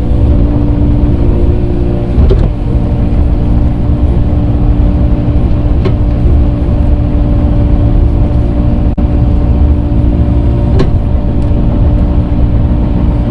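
Earthmoving machine's engine running steadily under load as it moves dirt, with a few short knocks from the machine or bucket about 2, 6 and 11 seconds in.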